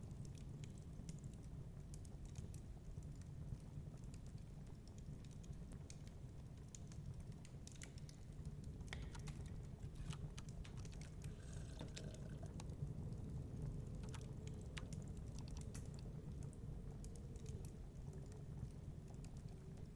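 Wood fire in a fireplace crackling, with irregular sharp pops and snaps over a steady low rumble of storm wind.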